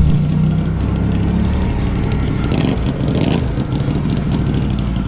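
Off-road vehicle engine running steadily, with a loud knock right at the start.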